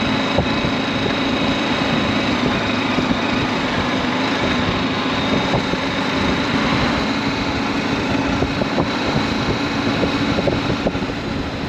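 BMW G310GS single-cylinder engine running at a steady pace under way, its pitch holding level, with a constant rushing noise of the ride.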